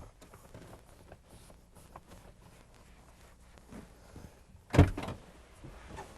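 Light clicks and knocks from the door of a late-1990s Buick Riviera as its door glass is worked, with one loud, sharp thump about three-quarters of the way through.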